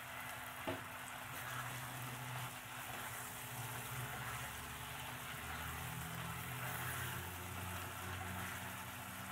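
Chili-paste sauce with prawns and fish balls sizzling in a non-stick wok as a spatula stirs through it, with one light knock a little under a second in.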